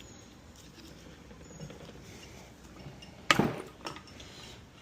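Sharp clack of a hard object knocking on a work surface about three seconds in, then a lighter knock, over quiet room tone.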